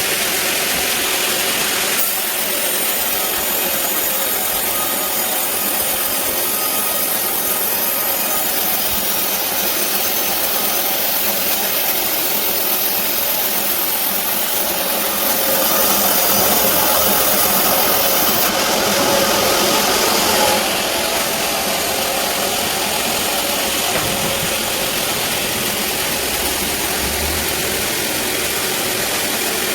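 Sawmill band saw running steadily through a teak log, louder for about five seconds just past the middle.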